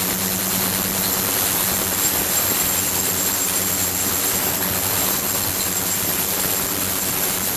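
Flowing-water ultrasonic tank running: a steady hiss with a low hum and a thin, high, constant whine.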